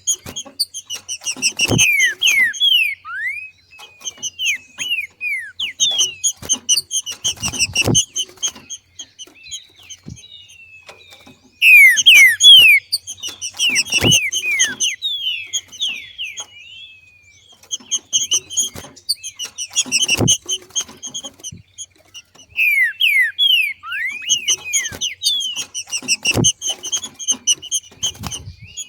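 Green-winged saltator (trinca-ferro) giving its 'macheado' call: bouts of rapid chattering chips mixed with quick downward-slurred notes. The bouts come about every six seconds, with short pauses between them.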